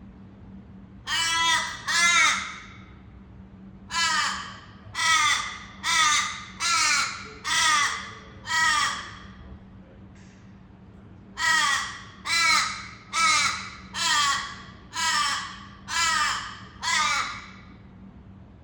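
A bird giving loud, harsh, repeated calls about one a second: two calls, then a run of six, then after a pause a run of seven.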